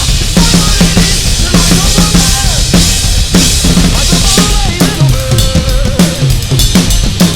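Rock/metal drum kit played live along to a band track: driving kick and snare hits under cymbal wash, with a wavering melody line held for about a second past the middle and falling-pitch tom hits near the end.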